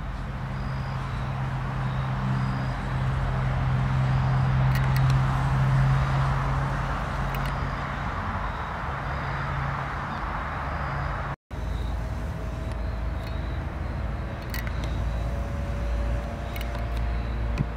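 Steady low engine drone that swells for a few seconds and then eases. After a cut about eleven seconds in, a deeper low rumble comes in with a faint high whine, as a diesel train approaches. Faint short high chirps repeat about once a second throughout.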